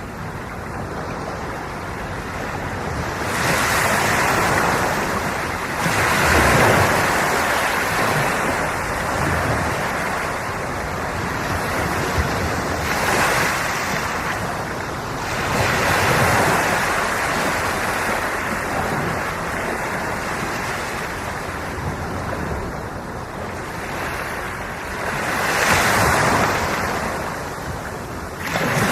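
Ocean surf: waves breaking and washing in over a continuous rush of water, swelling into louder surges every several seconds and then fading back.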